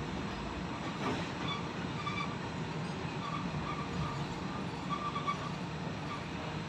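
A military special freight train rolls along the track, a steady rolling rumble of wagons. Short high-pitched squeals recur every second or so.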